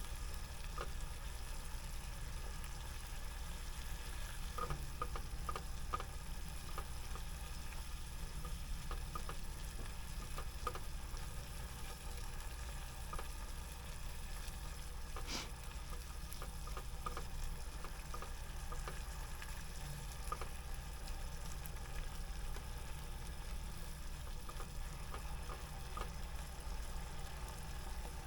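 Food sizzling in a frying pan, with scattered light clicks and one sharper click about halfway through.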